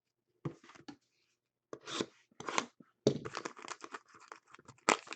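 Trading card packs and wrappers being handled and torn open, with scratchy tearing and crinkling in several short bursts.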